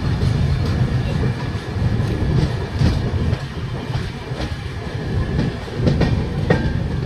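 Passenger train coaches running along a station platform: a steady low rumble with a few sharp wheel clicks over the rail joints, heard from beside the coach's side.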